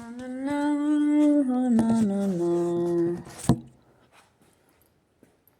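A person humming with the mouth closed, a held note for about three seconds that steps down twice in pitch, followed by a short click.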